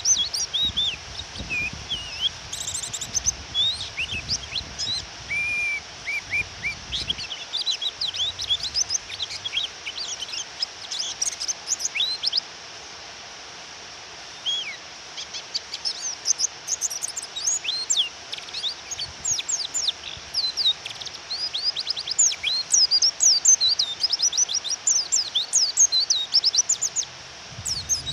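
Female white-eye (pleci) giving rapid, high, twittering chirps and short sweeping calls, used to provoke male pleci into singing. The calling stops briefly about halfway through, then resumes, over a steady rain-like hiss.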